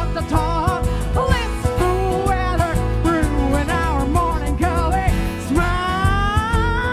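A woman singing a jazzy pop song with vibrato over a semi-acoustic band with guitar and bass. About six seconds in she holds a long, slowly rising note.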